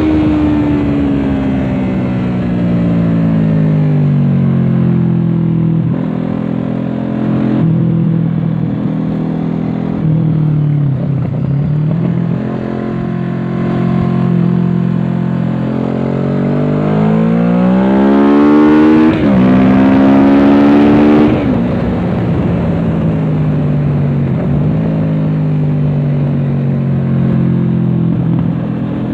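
Kawasaki Z650's parallel-twin engine through an aftermarket Dominator exhaust, under way on a race track. The revs fall over the first ten seconds and hold, then climb hard, with a gear change about nineteen seconds in, and fall away again a couple of seconds later.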